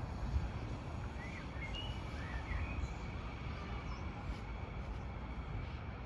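Steady low background rumble, with a few short bird chirps between about one and three seconds in.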